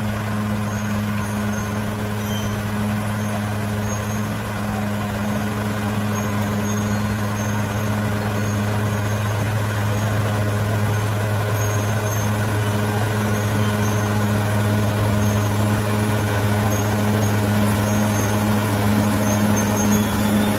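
A bulldozer's diesel engine runs at a steady, unchanging pitch, getting slightly louder toward the end.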